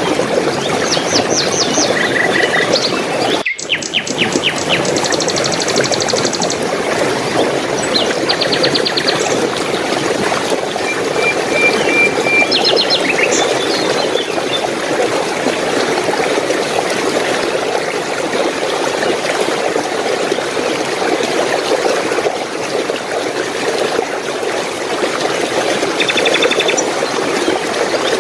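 Steady rush of running water, with small birds chirping in quick, repeated trills that are busiest in the first half and return near the end.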